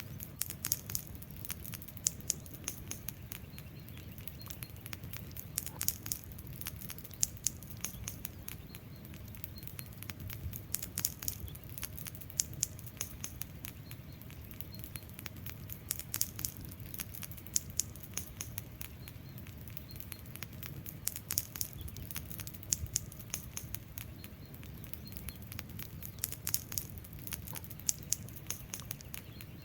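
Wood fire burning: irregular sharp crackles and pops over a low, steady rumble of flames.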